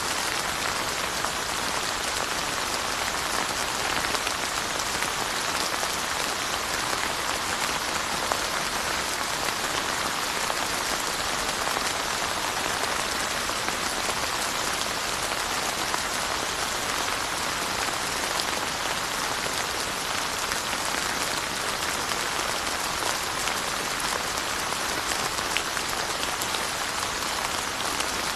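Steady rain falling on surfaces, a dense even hiss of drops with fine scattered patters, unchanging throughout.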